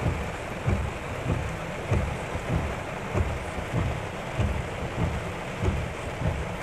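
Heavy rain pouring, a steady hiss, with a regular low thump about every 0.6 seconds underneath.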